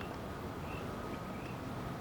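A few faint, short bird chirps, spaced apart, over a steady low background rumble.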